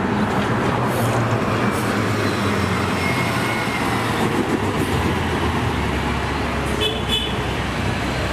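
Recorded city bus and street traffic: a bus engine running steadily under dense road noise.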